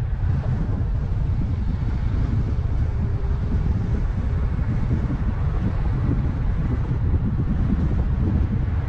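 A car driving at steady speed: a constant low rumble of engine and road noise, with some wind on the microphone.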